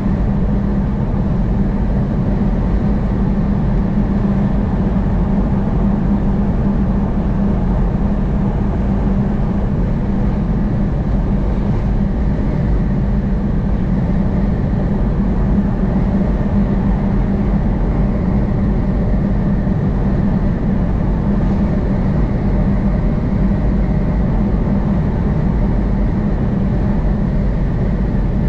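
Steady road and engine noise of a vehicle travelling at highway speed, heard from inside the cabin, with a constant low hum.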